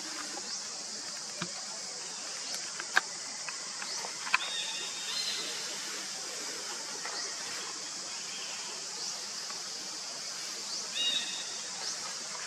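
Outdoor ambience: a steady high hiss, with a few sharp clicks and two brief high-pitched calls, about four and eleven seconds in.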